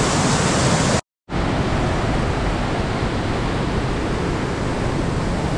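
Steady, loud rush of falling water from heavy rain and the rain-swollen waterfall. It cuts out completely for a moment about a second in, then carries on unchanged.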